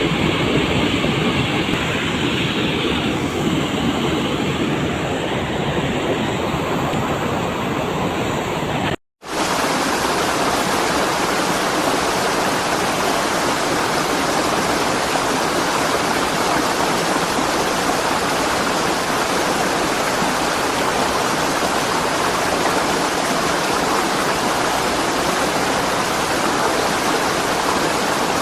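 Cold lahar (volcanic mudflow) flood torrent rushing down a river channel: a steady, loud rushing of water. The sound cuts out for a split second about nine seconds in, then the rushing resumes.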